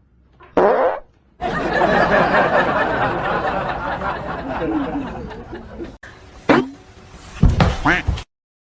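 People laughing amid a loud jumbled background, with two short sharp sounds near the end.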